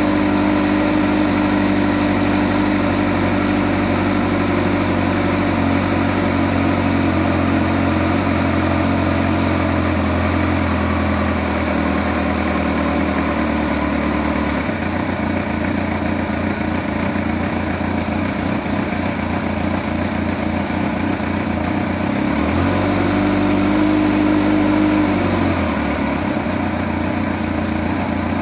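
2008 Kawasaki ZX-14's inline-four engine idling, its idle speed settling lower about halfway through. Near the end it is raised and held at a higher speed for about three seconds, then drops back. The engine has the ticking noise the owner is recording.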